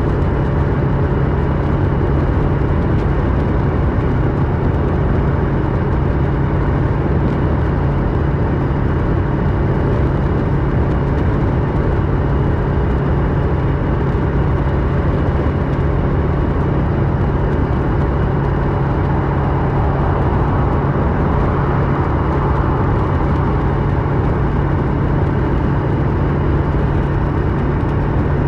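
Kawasaki Versys 650 parallel-twin engine running through a MIVV slip-on exhaust while the bike rides along, holding a steady pitch at an even cruising speed.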